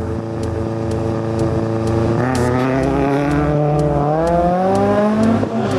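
BMW 318ti Compact rally car engine holding steady revs, then revving up as the car launches from a standstill. The pitch climbs, falls at a gear change about four seconds in, climbs again and changes gear once more near the end.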